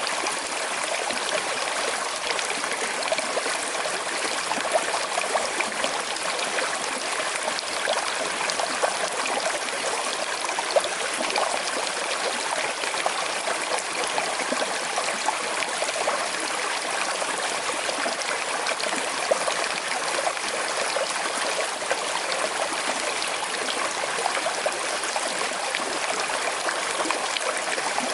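Small river with a slight current flowing steadily over stones, a continuous rush of water with fine trickling and gurgling splashes.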